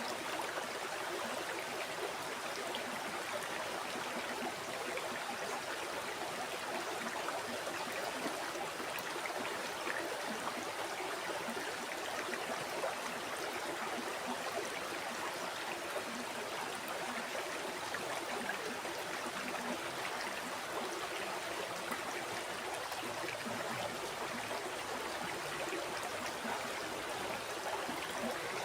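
Flowing river: a steady, even rush of running water.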